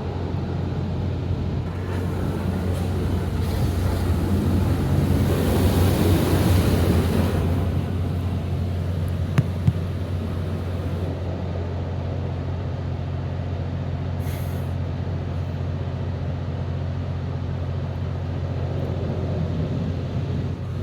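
Automatic car wash heard from inside the car's cabin: a steady low hum runs throughout, and a hiss of water spray swells over several seconds early on, then fades. Two sharp knocks come close together about halfway through, and a brief hiss follows a few seconds later.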